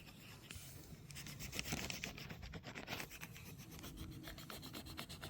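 Quick scratchy rubbing strokes, repeated many times a second, busiest in the middle.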